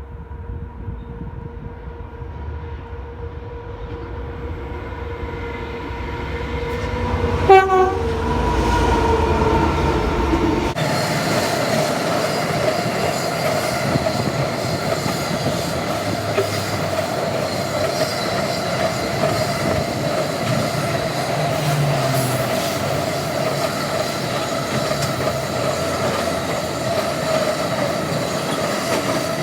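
A freight train passing: the locomotive approaches and sounds its horn about seven seconds in, the horn's pitch dropping as it goes by, then the wagons roll past in a steady rumble with clickety-clack from the wheels on the rail joints.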